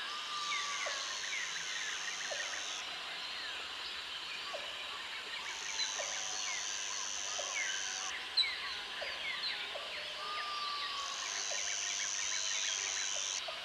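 Jungle ambience: many birds chirping and whistling over one another. A high-pitched insect buzzes three times, each time for about two and a half seconds, and one short sharp call stands out a little past the middle.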